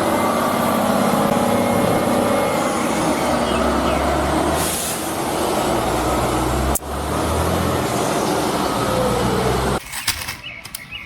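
Cement mixer truck's engine running, a dense steady rumble. It breaks off sharply once about seven seconds in, then drops away suddenly near the end, followed by a few clicks.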